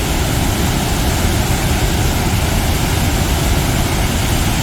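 Athabasca Falls: the Athabasca River pouring down through its gorge in a steady, loud rush of water with a deep low rumble.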